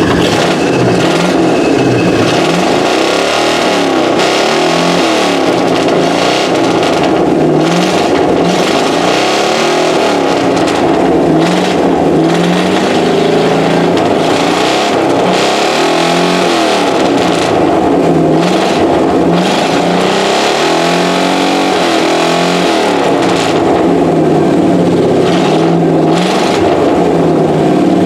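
1979 Chevy K20 pickup's engine running and being revved over and over through its exhaust, the pitch climbing and dropping back every couple of seconds.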